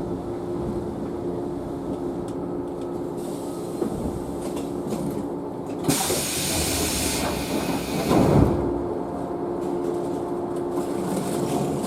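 JNR 113 series electric train standing at a station, its equipment giving a steady hum. About six seconds in there is a loud burst of compressed-air hiss, then a heavy thud a couple of seconds later, as the pneumatic doors close before departure.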